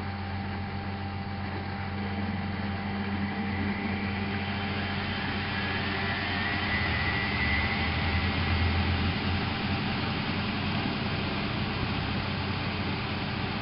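Miele Novotronic W830 washing machine running with a steady motor hum. A higher whine rises and then fades near the middle.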